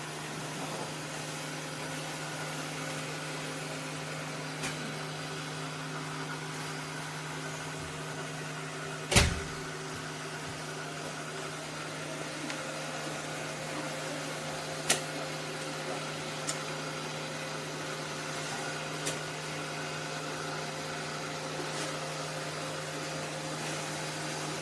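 Robot vacuum-mop running with a steady motor hum. A sharp knock comes about nine seconds in, a lighter click near fifteen seconds, and a few faint ticks are scattered through.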